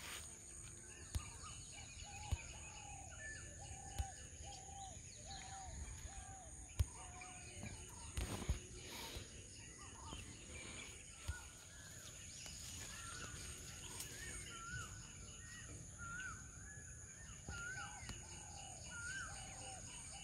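Birds calling outdoors: short arched notes repeating about one and a half times a second, a lower series in the first half and a higher series with rising hooks in the second half. A steady high whine runs underneath, with a few light knocks.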